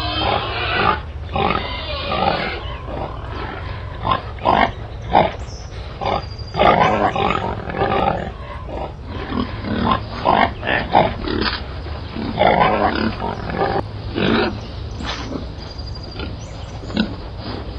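A large animal grunting in a long run of short, irregular grunts, some much louder than others.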